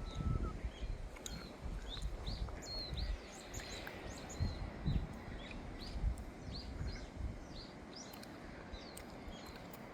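Small birds chirping, many short repeated calls, over an uneven low rumble that swells in gusts. The chirps thin out in the last couple of seconds.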